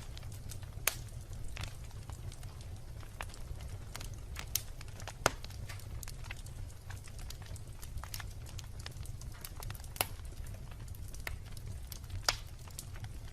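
Wood bonfire crackling: irregular pops and snaps of burning wood over a low steady rumble, with a few louder sharp snaps spread through.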